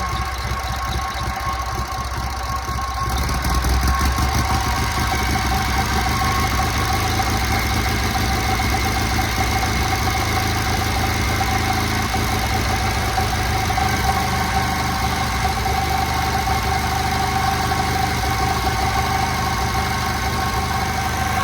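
1956 JAP Model 55 TVO stationary engine running steadily while driving a 5 kW ex-army generator, with steady high whining tones over the engine note. About three seconds in, the running gets louder and deeper, then holds steady.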